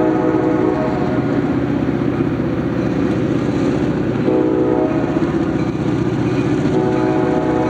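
Locomotive air horn blowing long blasts over the rumble of a passing train. The horn drops out about half a second in and sounds again a little past the middle.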